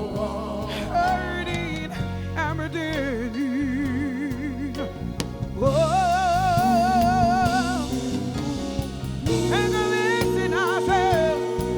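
Live soul band playing a slow song while a singer holds long notes with a wide vibrato over sustained chords.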